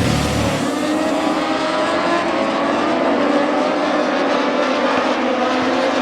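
Racing motorcycle engines running at speed around a race circuit, several engine notes slowly rising and falling over one another.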